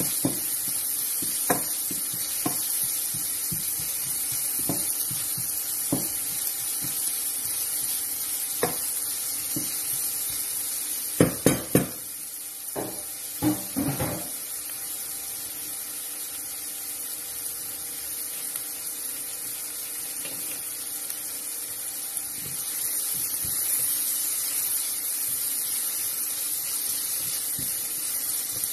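Chopped onion, garlic and chillies sizzling in oil in a nonstick frying pan: a steady hiss, with a spatula stirring and knocking against the pan now and then. Three sharp knocks in quick succession come a little over a third of the way in, then two more soon after.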